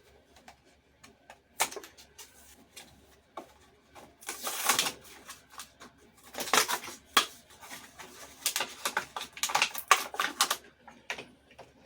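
Plastic blister packaging and card backing of a small diecast toy being handled and opened: crackling and sharp clicks in several short bursts, the longest near the middle and toward the end.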